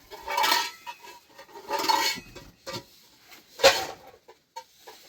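Pots and utensils clattering and scraping in three short bursts, the last ending in a sharp clank about three and a half seconds in.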